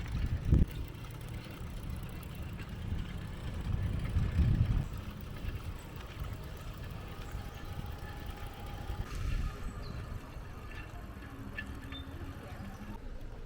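Low rumble of road vehicle noise, louder in the first few seconds, with a sharp knock about half a second in.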